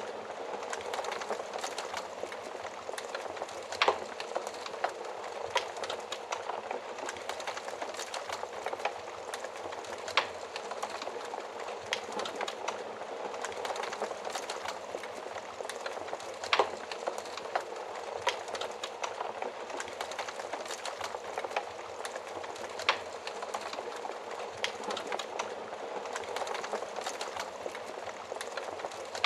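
Wood fire crackling in a stove-like fireplace: a steady rush of burning with many small sharp pops, and a few louder pops about every six seconds.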